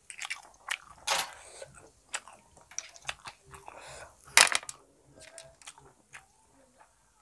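Chewing of snail curry, with scattered short clicks and small mouth noises; the loudest is a sharp click about four and a half seconds in, as snail shells are handled over the steel plate and bowl.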